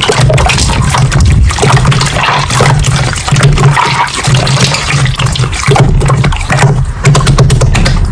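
Slime being squished and kneaded by hand, with continuous wet, crackly squelching and popping.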